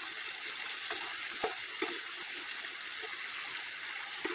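Small marinated chicken pieces sizzling steadily in hot mustard oil in a nonstick kadai, with a few light taps and scrapes of a wooden spatula stirring them against the pan.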